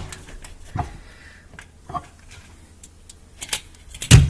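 Handling of a coffee mug at a microwave oven: a few light clicks and knocks, two with a short ring, then a louder thump near the end.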